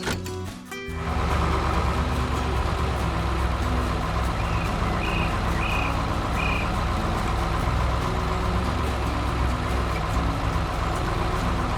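Heavy construction-vehicle engine sound effect starting about a second in and running steadily, with four short high chirps about halfway through, over background music.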